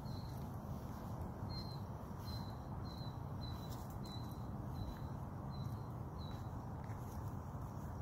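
A small bird chirping, a run of about nine short high chirps each slightly falling, one every half to three-quarters of a second, that stop about six seconds in. A steady low rumble of background noise lies underneath.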